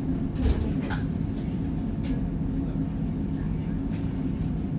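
Steady low hum inside a CAF Urbos 3 tram standing at a stop, with a sharp knock about half a second in and a few lighter clicks after it.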